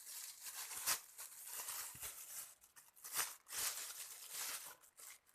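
Close-up eating and food-handling noises: irregular crinkling and crackling, with a sharp click about a second in and another about three seconds in.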